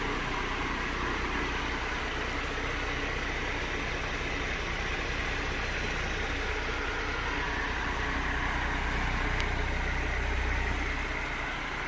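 Small electric fan motor running steadily, spinning a dishwasher propeller with a low, even hum and whir of air. A faint tick about nine seconds in.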